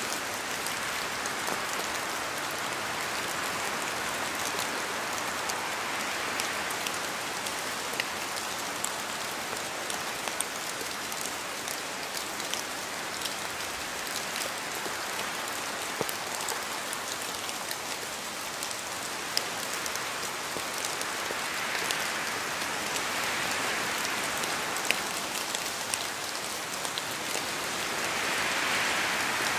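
Steady rain falling, an even hiss with individual drops ticking through it, swelling gently in level now and then and a little louder near the end.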